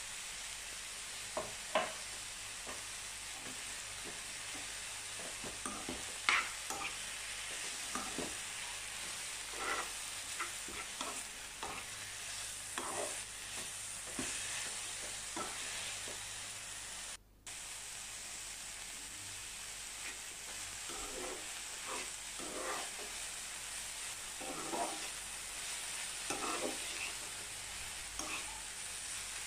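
Fenugreek leaves (methi shak) frying in a frying pan with a steady sizzle, while a steel spoon stirs and turns them, giving frequent short scrapes and clinks against the pan. The sound cuts out for a moment just past halfway.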